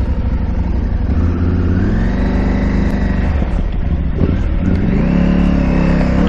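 KTM 890 Adventure R's parallel-twin engine revving up twice under throttle, each time holding the higher revs for a second or two before easing off.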